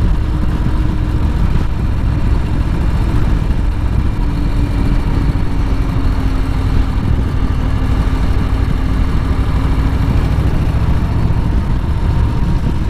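Harley-Davidson motorcycle's V-twin engine running steadily, heard from the rider's seat as a dense, even low rumble.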